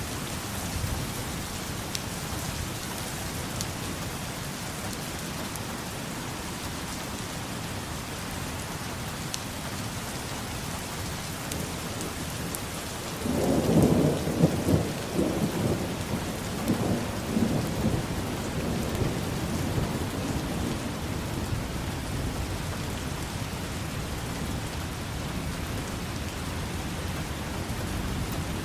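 Steady rain falling, with a roll of thunder rumbling in about halfway through and fading away over the following seconds.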